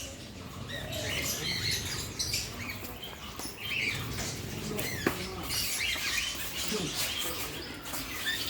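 Small birds chirping and twittering in short, scattered high calls, with a single sharp click about five seconds in.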